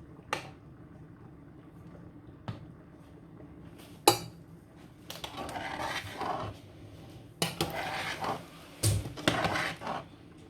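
Metal utensils clinking and scraping against a cooking pot. A few light knocks, one sharp clank about four seconds in, then three stretches of scraping.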